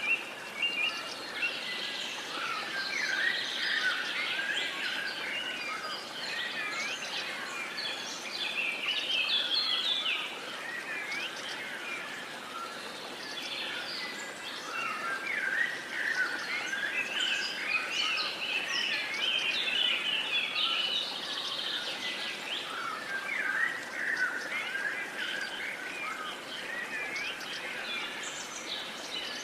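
Many songbirds singing and chirping together, a dense chorus of overlapping calls over a faint steady hiss.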